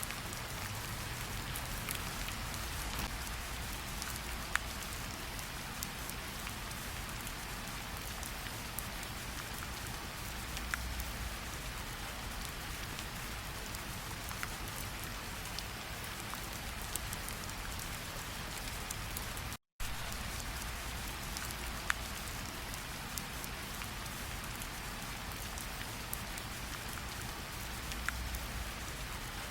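Steady rainfall, a constant hiss with scattered individual drops ticking sharply. It cuts out completely for a split second about two-thirds of the way through, then carries on unchanged.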